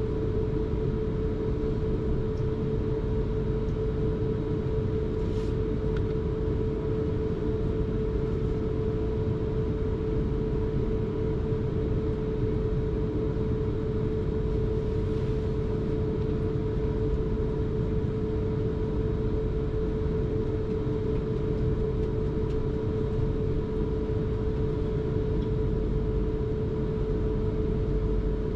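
South Western Railway electric commuter train heard from inside the carriage, running steadily with a low rumble and a constant hum.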